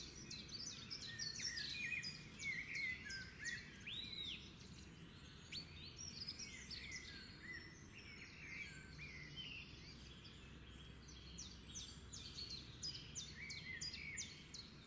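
Faint birdsong: many short, high chirps and twitters from small birds, overlapping throughout.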